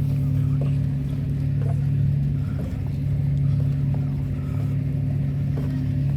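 An engine running steadily, a constant low hum with some rumble underneath.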